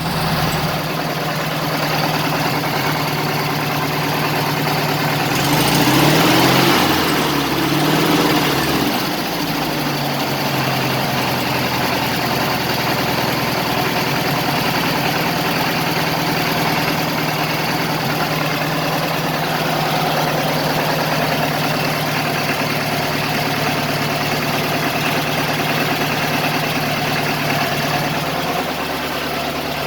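1970 VW Beetle's air-cooled flat-four engine idling steadily, revved up twice about six and eight seconds in, then settling back to idle.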